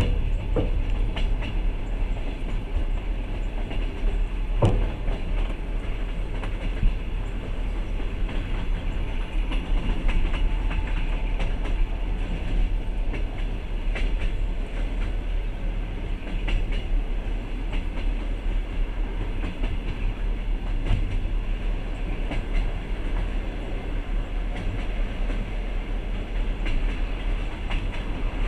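Passenger train running, heard from inside the carriage: a steady rumble of wheels on rail with a few sharp knocks from the rail joints.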